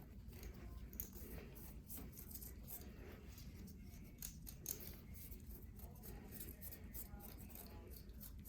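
Scalpel blade shaving thick, hard callus off the foot: faint, irregular crisp scraping strokes.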